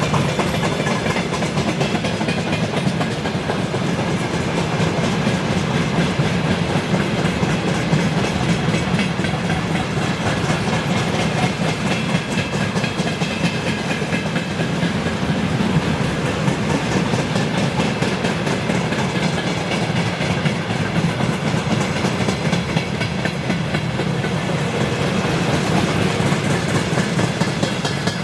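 Freight train wagons rolling steadily past on the rails, a continuous loud rumble and clatter of wheels on track.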